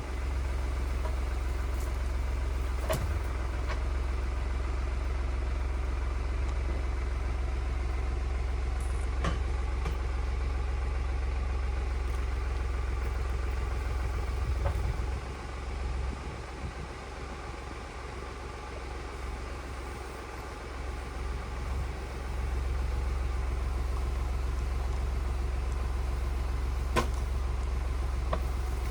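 Tractor engine running steadily with a low rumble, easing off for several seconds midway. A few sharp knocks come through over it.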